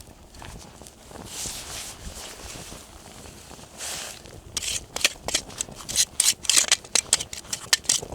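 Campfire burning, crackling and popping, with the sharp pops coming thick and fast from about halfway through.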